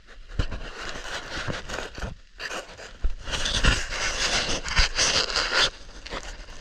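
Scraping and rustling of a person crawling and scrambling over rock, with a few dull thumps; it is loudest in the latter half.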